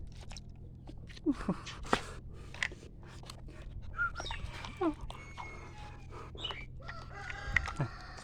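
Chickens clucking, with a rooster crowing near the end, among scattered light clicks and knocks.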